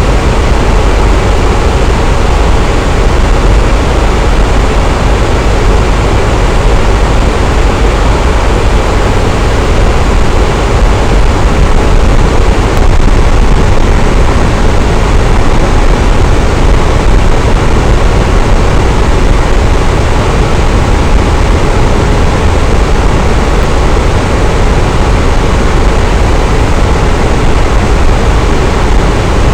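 Electric fan running steadily: a constant whooshing rush of air with a strong low hum, unchanging throughout.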